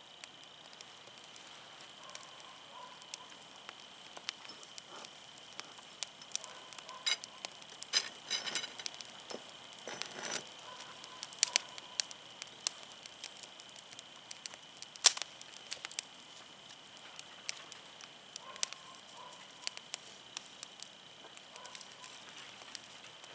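Wood fire crackling, with irregular sharp pops from the burning firewood, the loudest about fifteen seconds in.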